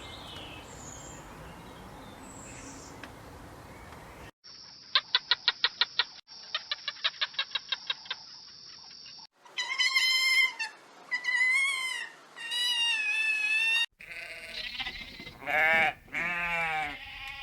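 A string of different animal calls. First comes a run of rapid high-pitched clicking, about seven pulses a second, in two bursts. Then three drawn-out bleat-like calls, and near the end several shorter calls that waver up and down in pitch.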